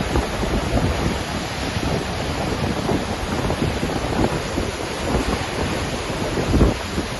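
Waterfall: a steady rush of falling water with a deep rumble, swelling briefly near the end.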